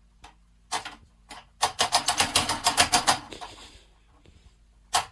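A few single sharp clicks, then a fast run of clicking taps about ten a second, which stops and starts again near the end.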